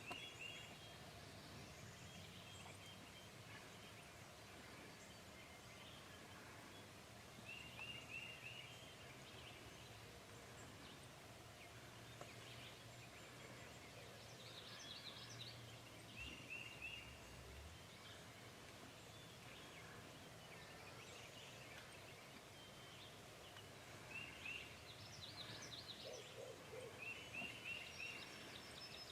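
Faint bird calls: short clusters of three or four quick high notes, repeated every several seconds, over a faint steady low hum.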